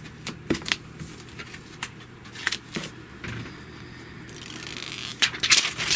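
Handling noises from the phone and its plastic screen-protector film: scattered light clicks and crackles, with a brief soft hiss and then a cluster of louder clicks near the end.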